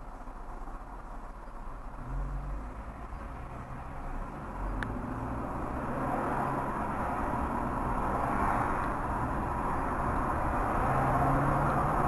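Car driving, its engine and road noise growing steadily louder over several seconds, with a faint click about five seconds in.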